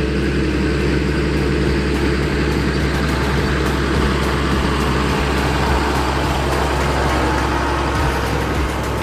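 Tractor engine running steadily, with a deep low hum.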